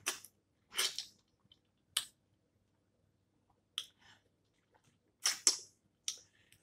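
Snow crab legs being cracked open and eaten: about six short, sharp cracking and smacking sounds, spaced irregularly with quiet between them.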